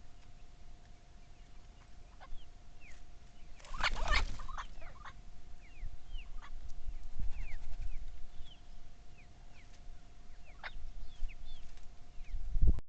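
Chickens: many short, high, falling peeps repeated throughout, with one louder call about four seconds in. A low bump comes just before the sound cuts off.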